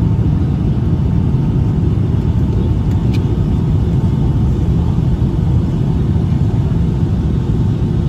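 Steady low cabin rumble of a Boeing 757-200 heard from a rear economy window seat, its Pratt & Whitney PW2000 engines running, with a faint steady whine above it. A brief high squeak about three seconds in.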